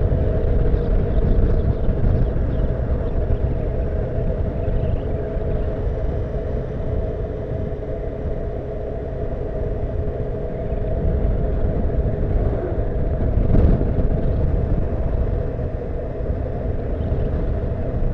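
Honda CBF motorcycle engine running at a steady cruise: a steady engine drone under heavy low wind rumble on the camera's microphone, with one brief knock about three-quarters of the way through.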